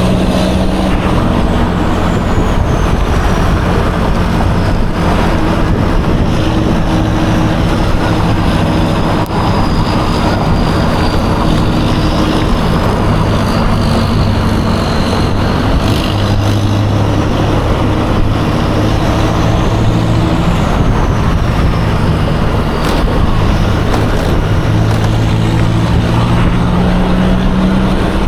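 Yamaha Aerox 155 scooter's single-cylinder engine running under way in traffic, its pitch shifting as the speed changes, over a steady rush of road and wind noise. A faint high whine slides slowly down and rises again near the end.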